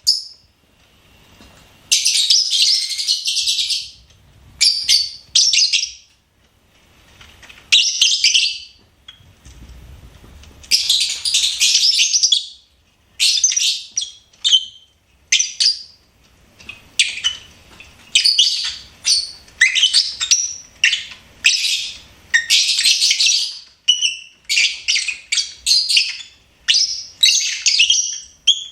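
Lovebird chirping in bursts of high-pitched chirps, some brief and some running a second or two, coming closer together in the second half.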